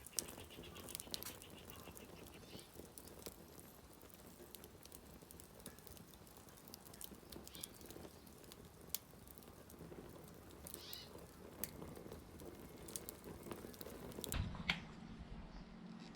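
Faint wood campfire crackling: scattered irregular pops and snaps over a soft hiss. About two seconds before the end it cuts to a low steady hum.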